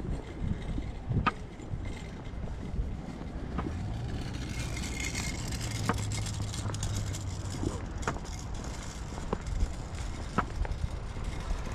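Outdoor walking ambience on a paved trail: a low rumble on the camera microphone with sharp clicks every second or two, and a steady low hum for a few seconds in the middle.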